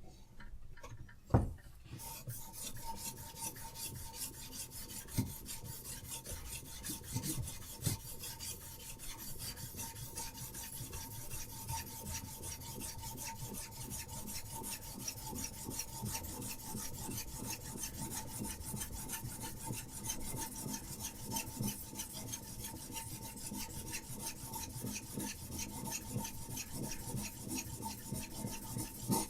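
Diamond sharpening stone on a guided-rod knife sharpener scraping rapidly back and forth along a steel knife blade, steady and continuous once it starts. A single sharp click comes about a second in, just before the strokes begin.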